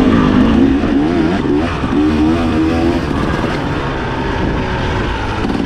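Dirt bike engine revving up and down over and over as the throttle is worked while riding, over a steady rumble.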